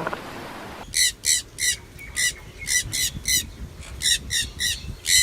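A bird giving short, high, repeated calls, about three a second, starting about a second in.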